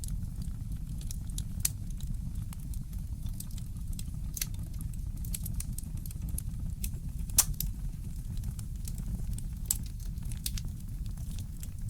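Fireplace crackling: irregular small pops and snaps over a low, steady rumble, with one louder pop about seven seconds in.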